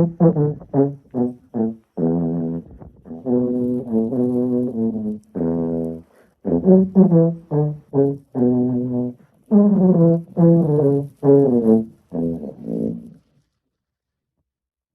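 A brass instrument playing a melody: a run of short, quick notes, then longer held notes, stopping near the end.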